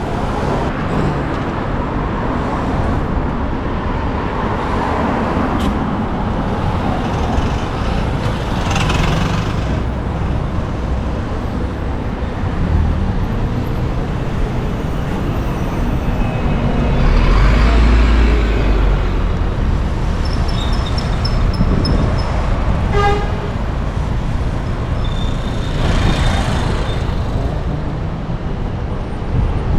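City road traffic passing steadily, with single vehicles swelling louder about a third, two-thirds and near the end of the way through, the middle one a heavy vehicle with a deep low rumble. A brief rapid beeping sounds a little after that.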